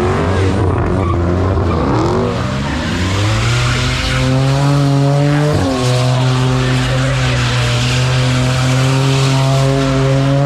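Car engine revving up and down, then held at steady high revs for several seconds, with a brief dip about halfway, over the hiss of tyres screeching on the pavement.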